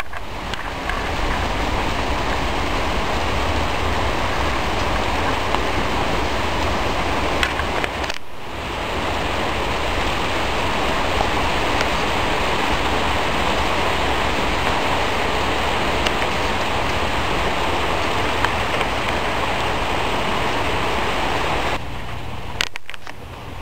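Steady heavy rain from a thunderstorm, an even hiss with no thunder, broken by two brief dropouts, about eight seconds in and near the end.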